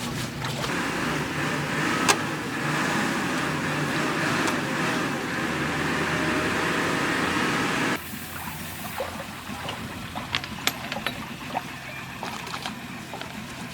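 Backhoe loader's diesel engine running under a loud rush of water. The sound cuts off abruptly about eight seconds in to a quieter steady engine hum with scattered clicks and ticks.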